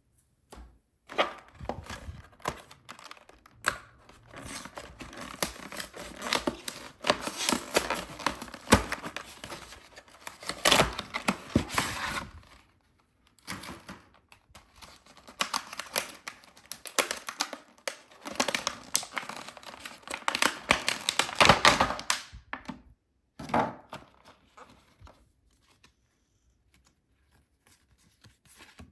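Product packaging being torn open and crinkled by hand, in two long bouts with a short break between them, ending with one brief burst.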